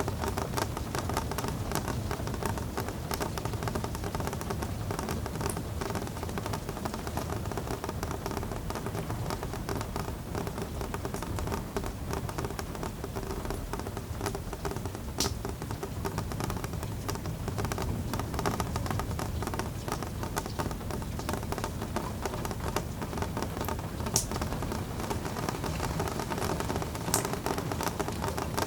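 Steady rain pattering, with a few sharper drip taps standing out now and then.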